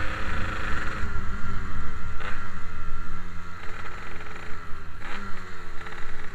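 Yamaha RX-King's 135 cc two-stroke single-cylinder engine running under way, its note dipping briefly and climbing again twice, about two seconds in and again near five seconds.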